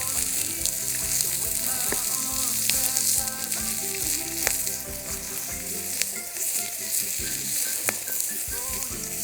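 Chicken sizzling hard on a thick steel griddle (Yokozawa teppan) set over a Swedish torch burning at full, unadjustable heat, with a few sharp pops through the steady sizzle.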